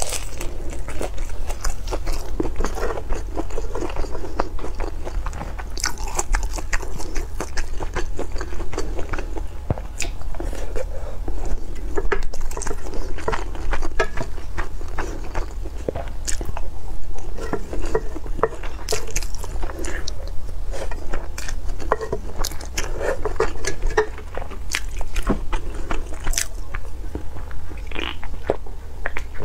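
Close-miked eating: biting and chewing braised pork ribs, with many short crunches and crackles from crispy fried crumbs, over a steady low hum.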